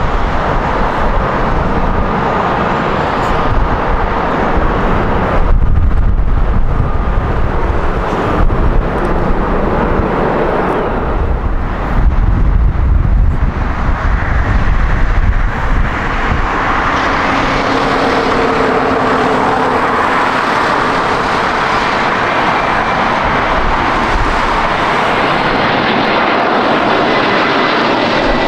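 Jet airliner engines close by: a deep, fluctuating rumble through the first half, settling into a steady engine sound with faint held whining tones from about halfway on.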